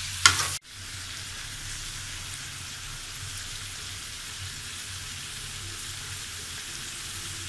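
Curry ingredients sizzling steadily in hot oil in a pan. A brief loud clatter comes just after the start, followed by a sudden cut in the sound.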